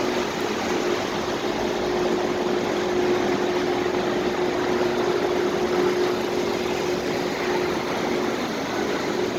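Car park ambience: a steady, even rush of noise with one constant hum running through it, from vehicles and machinery.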